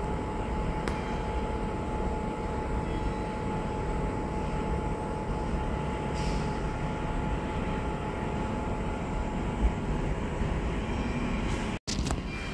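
Steady low rumble of a train running, with a faint steady whine over it. A small click comes about ten seconds in, and the sound cuts out for an instant near the end.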